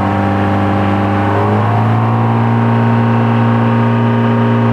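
Boat's engine running close by, its revs rising a little about a second and a half in and then holding steady.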